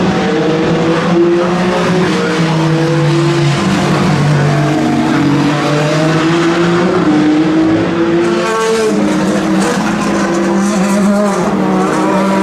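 Race car engines at speed, likely the Peugeot 9X8 hypercar's twin-turbo V6 among other cars, with several engine notes overlapping and shifting in pitch through the gears. About eight seconds in, a brighter, rising engine note comes in over the others, as a car accelerates closer.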